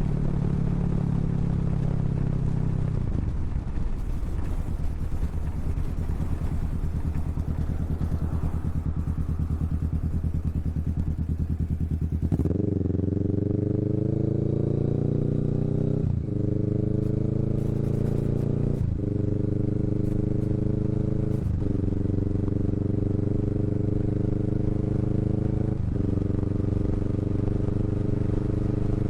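Kawasaki Vulcan S parallel-twin motorcycle engine running through a Hoonk aftermarket twin exhaust while riding. After a few seconds the engine note drops as the bike slows. About twelve seconds in it pulls away, the pitch climbing again and again with four upshifts.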